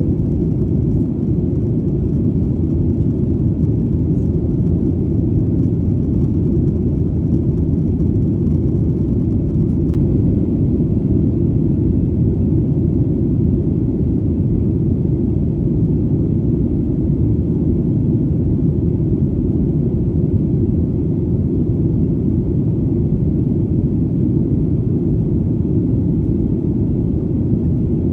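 Steady, deep rumble of an airplane in flight: engine and airflow noise that stays even throughout.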